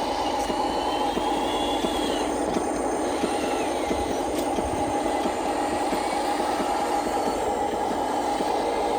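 Electric motors and gearboxes of a Huina radio-controlled construction model running steadily, with a continuous mechanical whir.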